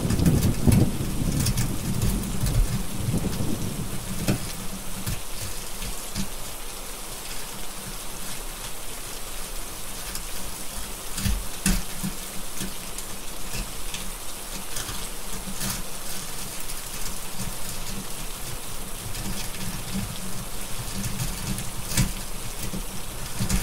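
Steady rain with rolling thunder, the rumble fading over the first few seconds and building again near the end. Scattered sharp crackles of a wood fire come through the rain.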